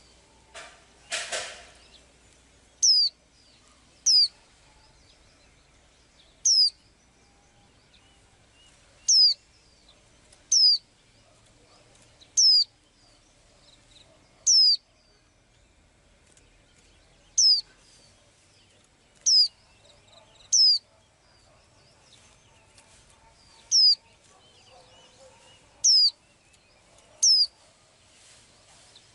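A small bird repeating a single short, high, sweeping chirp about thirteen times, one every one to three seconds. A brief rustle about a second in.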